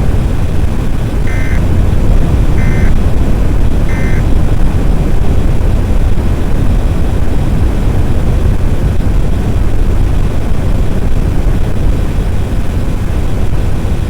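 A loud, steady low rumble of noise with no speech, and three short electronic beeps evenly spaced about a second and a quarter apart in the first few seconds.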